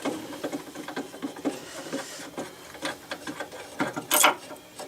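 Screws being unscrewed with a screwdriver: a quick, irregular run of small metallic clicks and ticks, with one louder scrape about four seconds in.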